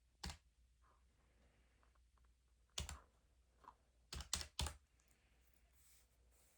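A few sharp key presses: one tap near the start, another near three seconds, then three quick taps just past four seconds.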